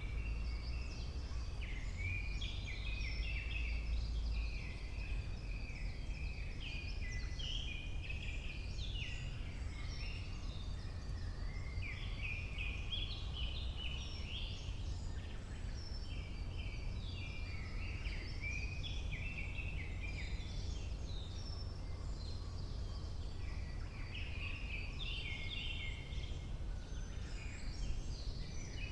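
Several forest songbirds singing at once, overlapping chirps and trills throughout, over a steady low rumble.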